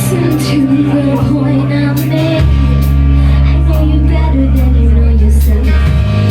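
Live band playing a slow song: long held bass notes that change about two and a half seconds in, regular cymbal strikes, and a sung melody over them.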